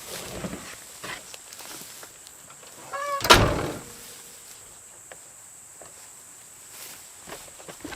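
A brief squeak about three seconds in, followed at once by a loud bang, over a steady high insect drone and light handling taps.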